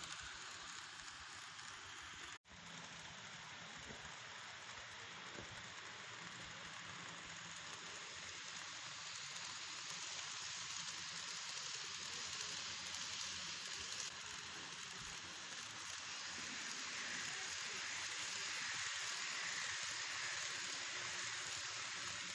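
Steady hissing rattle of an N-gauge model train running on its track: wheels rolling on the rails and the small motor, with no sound unit fitted. It cuts out for an instant about two seconds in and grows slightly louder near the end.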